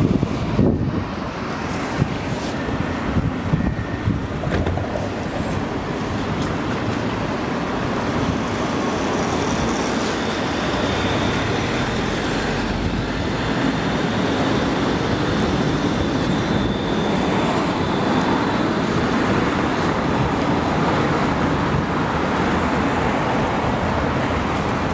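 PESA Fokstrot tram running, heard from inside the passenger cabin: a steady rumble of wheels on rails, with a few knocks in the first few seconds and a faint high whine in the middle.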